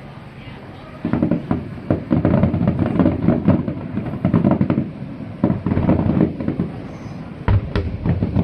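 Aerial fireworks bursting: a rapid, dense series of crackling bangs starts about a second in, with a heavy low boom near the end.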